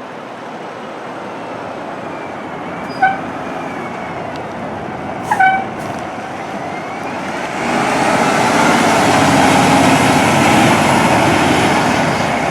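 Fire engine on the move, its engine and road noise building steadily, with two short pitched blasts about three and five seconds in. The engine and road noise grow much louder from about halfway through, as the truck comes close.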